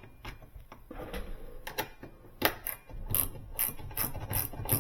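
Hand ratchet clicking as screws are driven into a refrigerator door hinge: scattered clicks at first, then from about halfway a steady run of clicks at roughly four a second.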